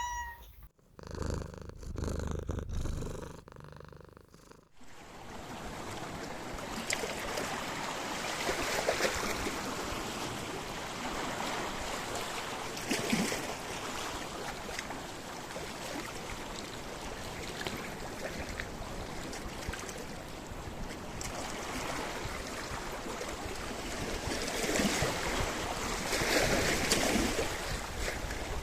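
Sea waves washing onto a rocky shore, a steady rush of surf that swells and recedes several times. The first few seconds hold a quieter low rumbling sound before the surf begins.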